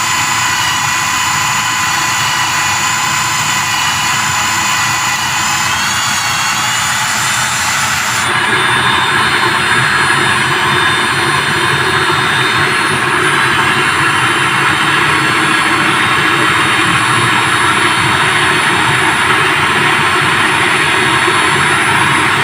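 Electric drill motor running steadily with a whine, spinning a homemade grater drum. About eight seconds in the sound shifts and gets a little louder.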